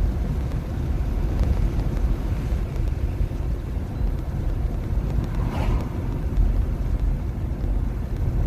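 2021 Nissan Leaf electric car driving uphill: a steady low rumble of tyres and road noise heard in the cabin, with a brief swish about five and a half seconds in.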